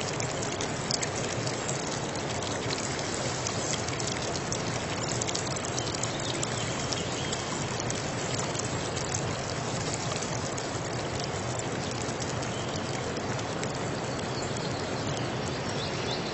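Water trickling and splashing steadily, with many small drops and splashes ticking through it.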